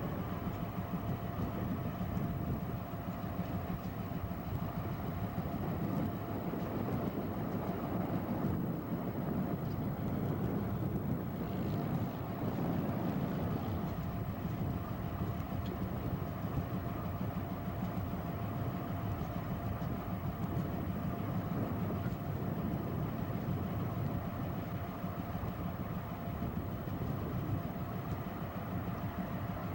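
A train running on the track: a steady, continuous rumble, with a faint steady tone over it during roughly the first ten seconds.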